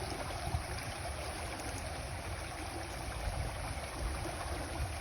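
Fast-flowing floodwater rushing past in a steady, even stream.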